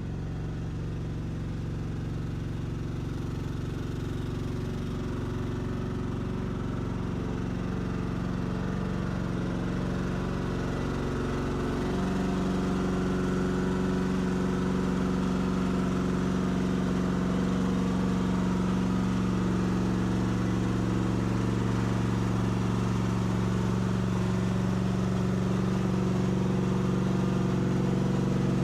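Carbureted gasoline engine running steadily. About twelve seconds in it picks up to a higher, slightly louder speed and holds there.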